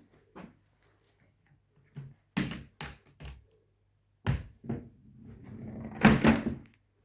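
A run of knocks and clunks in a small room: a cluster about two and a half seconds in, two more a little after four seconds, then a rising rustle that leads into the loudest clatter near the end.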